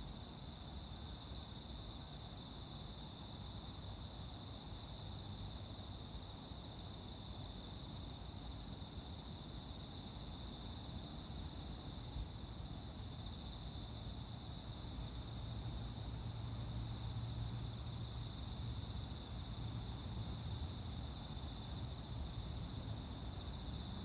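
Insects chirping in a steady, unbroken high trill. Under it is a low rumble that grows a little louder about halfway through.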